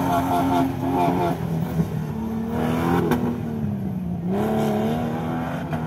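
Off-road buggy's engine revving under load through a muddy course, its pitch wavering with the throttle, dipping about four seconds in and rising again.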